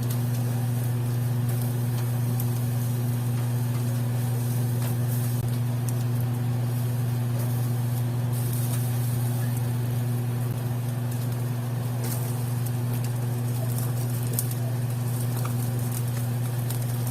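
Eel grilling: a faint sizzle with scattered small crackles over a steady low hum.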